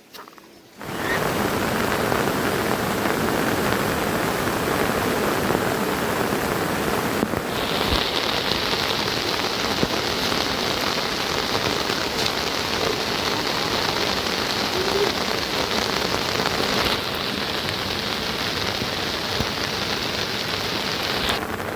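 Heavy rain falling steadily, a dense even patter that starts abruptly about a second in. A higher, steady hiss joins it from about seven seconds in.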